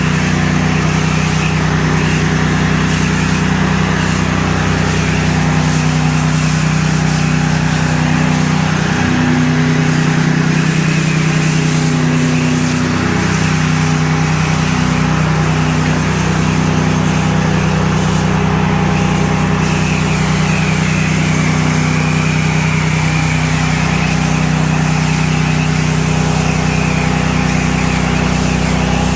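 Pressure washer running steadily under load, its engine hum joined by the hiss of the high-pressure water jet spraying.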